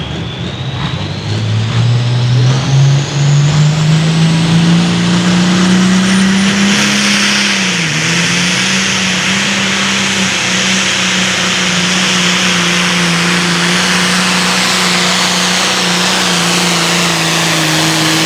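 Turbocharged diesel engine of a Super Farm pulling tractor running loud at full throttle down the track. Its pitch climbs over the first several seconds, dips briefly about eight seconds in, then holds steady, with a high turbo whistle rising above the engine.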